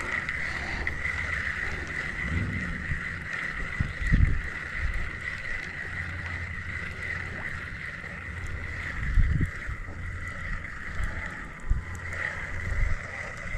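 A steady high squeal, which is taken for a car spinning donuts in the parking lot, with wind on the microphone and a few low thumps.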